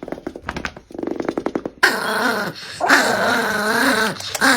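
A dog grumbling in a rattling growl for the first couple of seconds, then breaking into loud, wavering, howl-like whining vocalizations.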